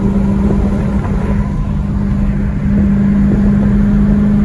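Straight-piped Dodge Challenger's exhaust running at a steady cruise, holding one even pitch with a deep rumble underneath, getting a little louder about two-thirds of the way through.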